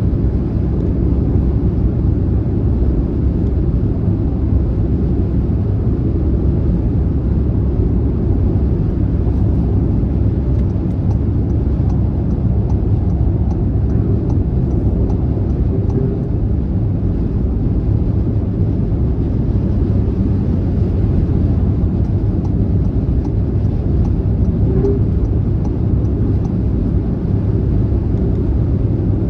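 Car driving along a motorway: a steady, even, low rumble of road and engine noise that does not change.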